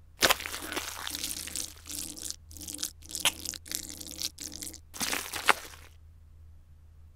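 A sharp crack, then a few seconds of crunching and crackling in short stop-start bunches: a cooking foley effect laid over Lego bricks being handled on a baseplate tray.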